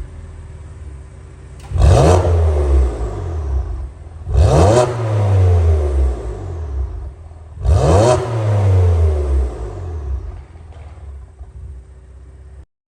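BMW M4's twin-turbo straight-six, breathing through a stainless single-midpipe exhaust, is revved sharply three times, idling in between. Each rev rises quickly, then falls away over a couple of seconds. The sound cuts off abruptly near the end.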